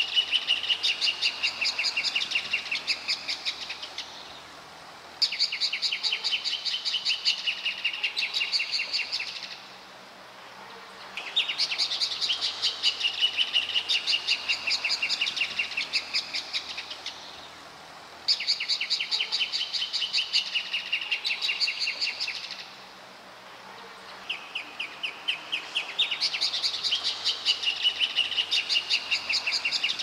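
A pair of rufous horneros singing a duet: loud runs of rapid, ringing notes, one bird's fast series laid over the other's slightly lower one. The duet comes in bouts of about five seconds, with short pauses between them.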